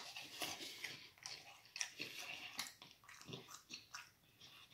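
A person chewing a mouthful of fried food close to the microphone: soft, irregular mouth clicks and smacks that die away near the end.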